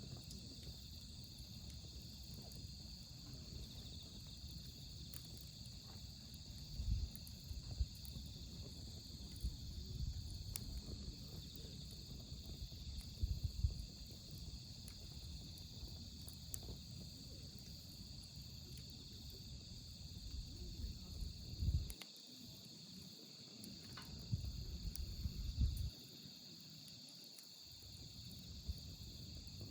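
Autumn-night crickets chirring in a steady high band over a wood fire crackling with scattered small pops. A low rumble comes and goes underneath.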